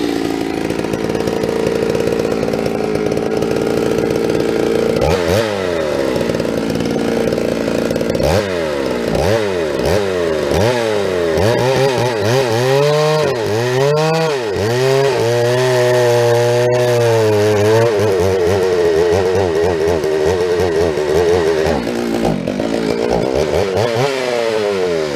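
Chainsaw running hard while bucking firewood. Its engine pitch holds steady at first, then from a few seconds in it keeps dipping under load and climbing back.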